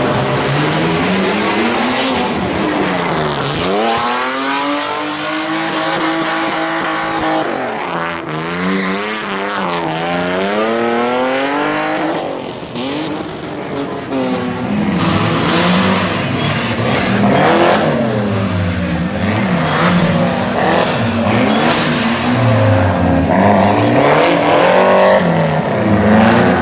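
Rally cars' engines revving hard, their pitch climbing and dropping again and again as the cars accelerate and pass.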